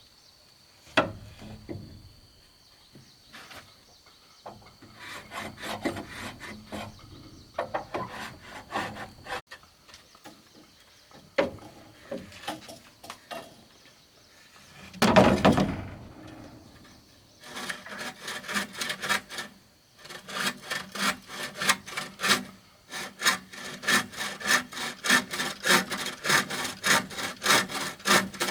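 A hand saw cutting wood: irregular scrapes and knocks, a heavy thud about halfway, then steady back-and-forth sawing in quick, even strokes.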